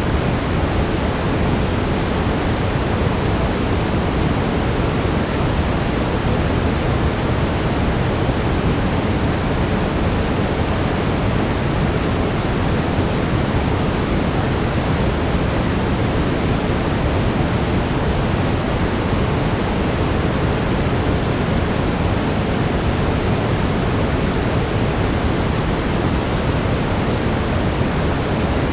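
Steady brown noise: an even, deep rushing hiss, heaviest in the low end.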